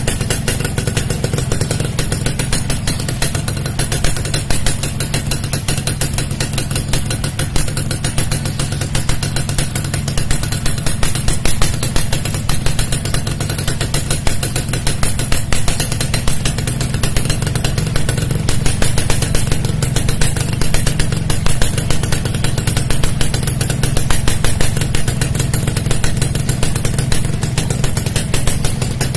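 Yamaha RX-King two-stroke single-cylinder engine running steadily through an aftermarket exhaust, a dense rapid popping exhaust note.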